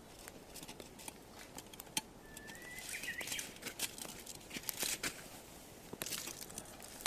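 Firewood burning in a small fire pit, crackling with scattered sharp pops. A short rising bird chirp about two to three seconds in.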